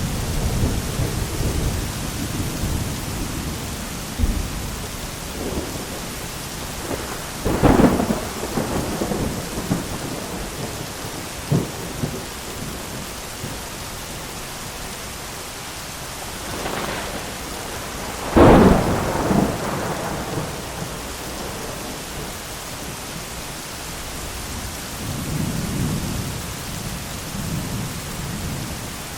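Thunderstorm with steady rain and rolling thunder. Two sharp, loud thunder cracks from close lightning strikes, about 8 and 18 seconds in, each trails off into rumbling, and lower rumbles come at the start and near the end.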